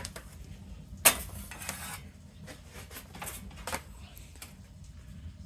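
Circuit boards and loose parts being handled on a workbench: hard clacks and clicks, one louder clatter about a second in followed by a few lighter ticks.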